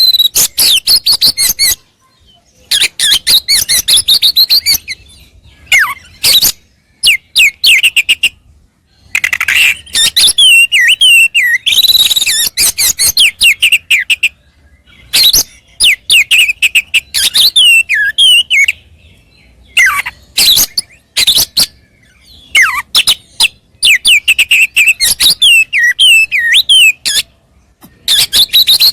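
Oriental magpie-robin (kacer) singing in a worked-up, fighting mood: fast, loud bursts of varied whistles, trills and harsh clicks, broken by short pauses, typical of a bird pouring out its repertoire.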